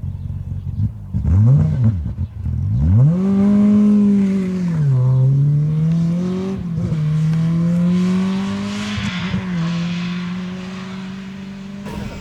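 Rally car engine blipped twice, then revved hard and held at high revs with a brief dip about five seconds in, like a gear change. The engine note slowly fades toward the end.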